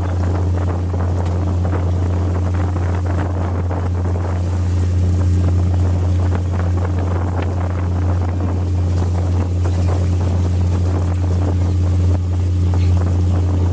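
Steady low drone of a fishing vessel's diesel engine running, with wind noise on the microphone over it.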